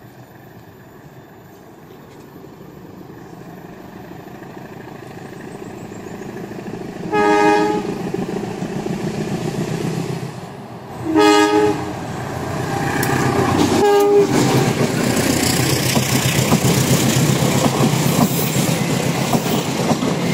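CC 203 diesel-electric locomotive hauling a passenger train approaches and crosses a steel truss bridge. Its two-note horn sounds two long blasts about 7 and 11 seconds in, the semboyan 35 warning signal, and then a short blast near 14 seconds. Under the horn the rumble of engine and wheels grows steadily louder, with wheels clattering over the bridge near the end.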